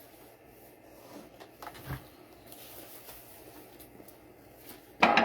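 Faint handling noises and a few light clicks in a quiet room. Just before the end a sudden loud sound cuts in and runs into steady, bell-like musical tones.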